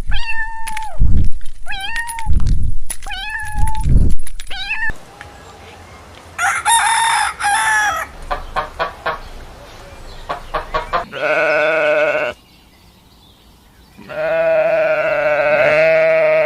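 A string of different farm-animal calls, one clip after another: a run of repeated calls over the first five seconds, a short high burst, a patter of clicks, then two long held calls, the last one lower.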